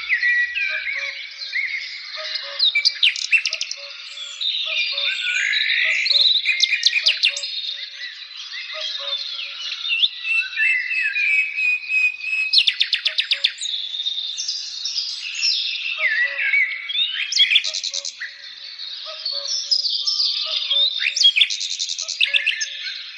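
A chorus of many songbirds singing at once: overlapping whistles, chirps and fast trills.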